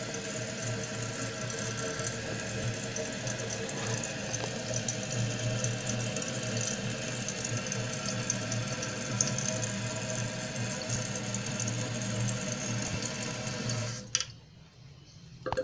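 Kohler Wellworth toilet tank refilling: water rushing through the fill valve with a steady humming tone, until the valve shuts off abruptly about fourteen seconds in.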